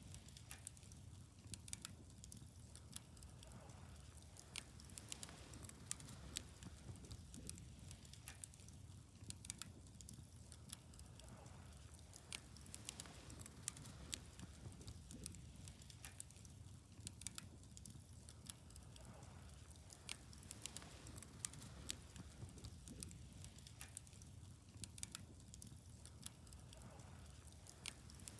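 Wood fire crackling, with frequent sharp irregular pops and snaps over a faint, steady low background.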